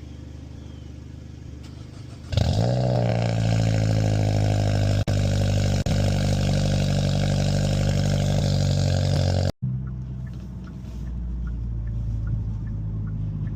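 Hyundai Elantra N's turbocharged 2.0-litre four-cylinder cold-starting after sitting about a week: about two seconds in it catches with a sudden loud flare that dips slightly in pitch, then holds a steady, loud fast idle. Near the end the sound cuts out abruptly and comes back as a quieter steady idle.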